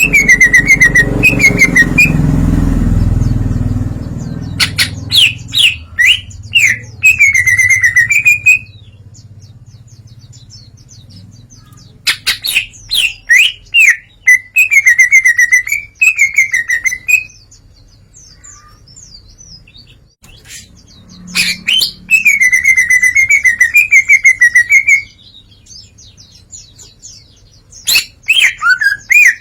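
Green leafbird (cucak ijo) singing in loud bursts, each a quick run of sharp clicking notes followed by a warbling phrase, repeated about four times with pauses between. It is running through its repertoire of learned phrases. A low rumble underlies the first few seconds.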